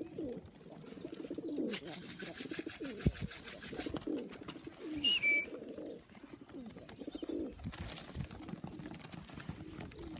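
Homing pigeons cooing over and over, with a burst of rapid wing flapping lasting about two seconds, starting a couple of seconds in. A brief high whistle sounds about five seconds in.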